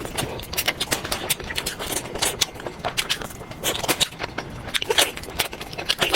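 Close-miked eating: crunching and chewing food, with many sharp, irregular crackles and clicks.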